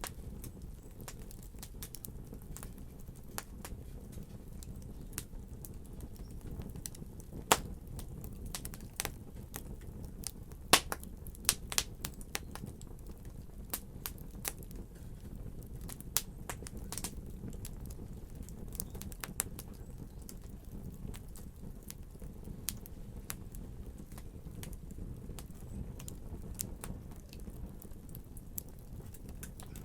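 Fire crackling: irregular sharp pops over a low steady rumble, with a cluster of louder pops about eight to twelve seconds in.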